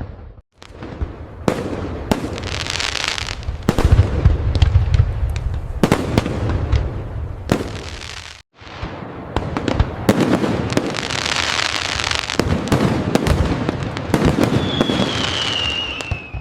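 Fireworks display: aerial shells bursting in a rapid string of sharp bangs and deep booms, with stretches of crackling and a whistle falling in pitch near the end. The sound drops out to silence twice, briefly.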